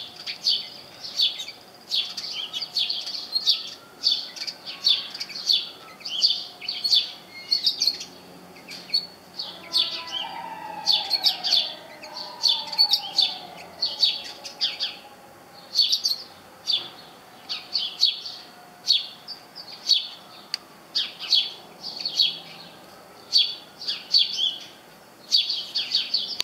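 Small songbird chirping: short, high chirps repeated about once or twice a second with brief pauses between clusters.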